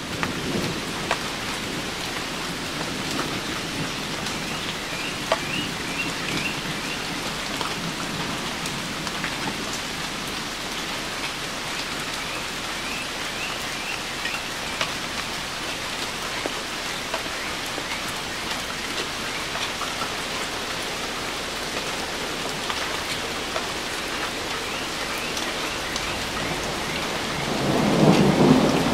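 Steady rain falling on tree leaves, with distant thunder. A low rumble of thunder swells up near the end.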